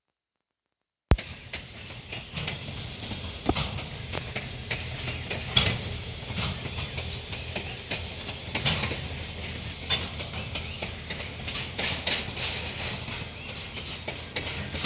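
Aurizon freight train rolling on the rails: wheels click and knock irregularly over a steady low rumble. The sound cuts in suddenly about a second in.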